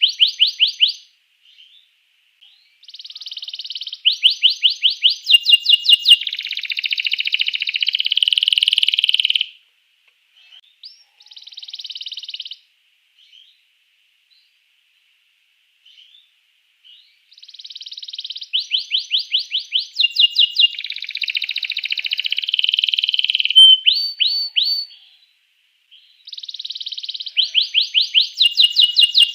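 Domestic canary singing loudly in long bouts of rapid trills and runs of repeated chirps, breaking off twice into short pauses with only a few scattered notes.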